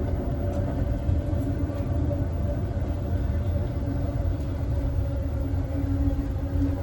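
Southwest Chief passenger train car rolling along the track, heard from inside the rear car: a steady low rumble of wheels on rails with a faint steady hum over it.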